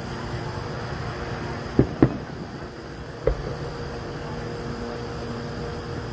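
Distant fireworks going off: two sharp bangs in quick succession about two seconds in and a third just after three seconds, over a steady low hum.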